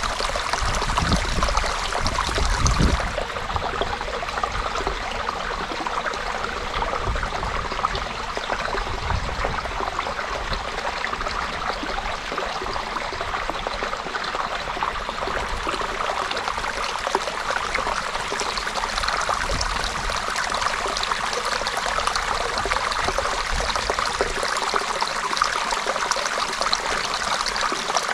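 Creek water running and trickling in a steady rush, with a low rumble in the first three seconds.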